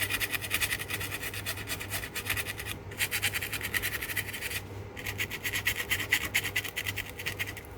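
Fibreglass pen scrubbing the solder pads of a loudspeaker crossover circuit board: a rapid back-and-forth scratching, cleaning off old flux residue and corrosion. It comes in three bouts, with short pauses about three and five seconds in.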